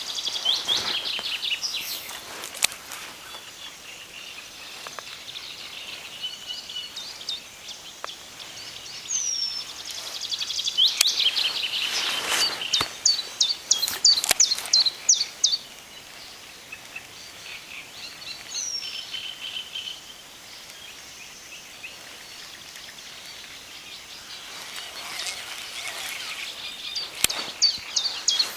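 Songbirds singing, with phrases of high chirps and trills coming and going and a brisk run of quick repeated notes around the middle.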